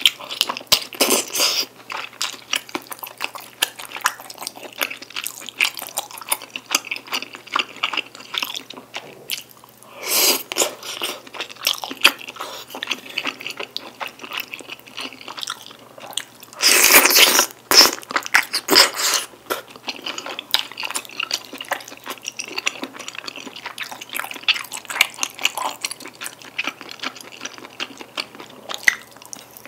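Close-miked chewing of sticky black-bean-sauce tteokbokki, chewy rice cakes and wide glass noodles, with a steady run of small wet clicks and smacks. Three louder, longer slurps come about a second in, around ten seconds and around seventeen seconds.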